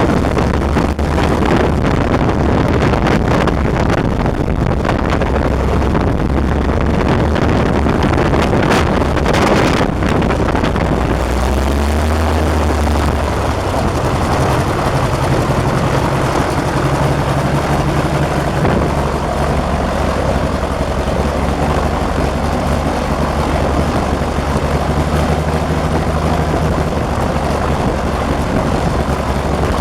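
Renault 6Q-10 inverted six-cylinder air-cooled aircraft engine of a Nord 1002 running with its propeller turning, on its first engine run. About twelve seconds in, the sound eases and settles into a steadier, lower note.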